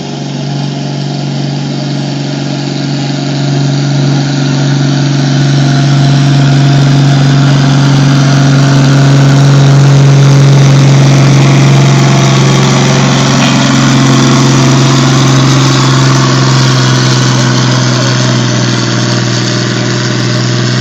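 Pulling truck's engine running hard at high, steady revs, as on a truck-pull run under heavy load. It grows louder over the first several seconds, then holds with a slight easing near the end.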